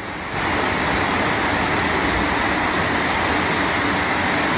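Rain falling steadily, a constant even hiss that comes up suddenly just after the start.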